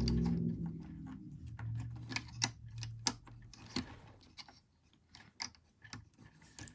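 Small clicks and taps of hard plastic toy parts being handled and snapped into place on an action figure, irregular and some sharper than others. A low hum fades out over the first couple of seconds.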